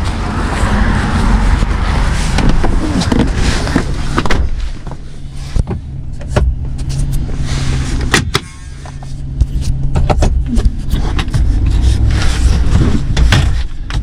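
The Ram 2500's 6.4-litre HEMI V8 running warmed up as the truck is driven off for a test after its transmission repair, a steady low hum. Several sharp clicks and knocks sound over it.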